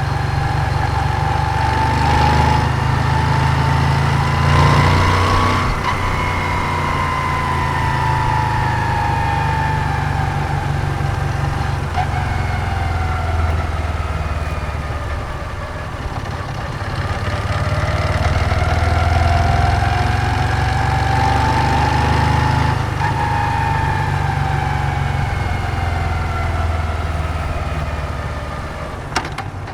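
Moto Guzzi V7's air-cooled transverse V-twin running under way, its pitch rising as it accelerates over the first few seconds, easing off, climbing again midway and falling once more near the end.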